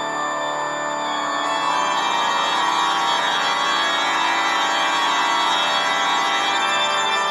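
A held, organ-like chord of many tones sounding steadily, swelling slightly about a second and a half in: an eerie sustained-organ sound effect.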